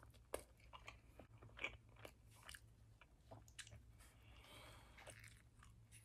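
Close-miked eating: biting into and chewing a roasted cauliflower pita wrap. The sound is a quiet scatter of soft crunches and wet mouth clicks, with the sharpest bites near the start.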